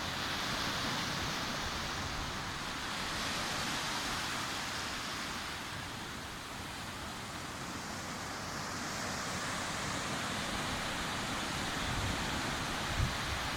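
Sea surf washing onto a beach: a steady rushing hiss that swells and eases every few seconds. A few low thuds come near the end.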